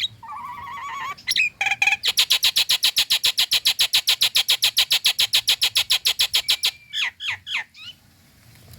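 Nias hill myna calling: a warbled whistle, a few short notes, then a long fast rattling series of about ten even pulses a second lasting some five seconds, ending in a few quick downslurred whistles.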